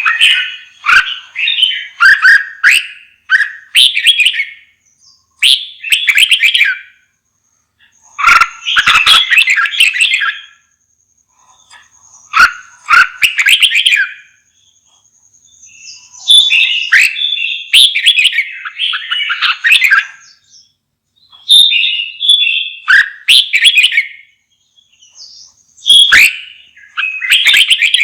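Red-whiskered bulbul singing: short, rich warbled phrases given one after another, with brief pauses between them.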